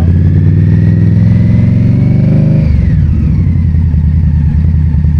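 Motorcycle engine under the rider pulling under throttle: its pitch rises for about two and a half seconds, then drops suddenly and runs on steady at a lower pitch.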